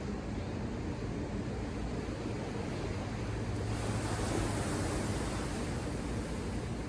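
Ocean surf: a steady low rumble of the sea, with a wave breaking and washing up the shore as a rising, hissing swash from about halfway through that fades near the end.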